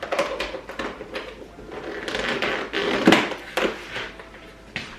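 Knocks, clicks and rustling of containers and kitchen items being handled and set down, with one louder knock about three seconds in.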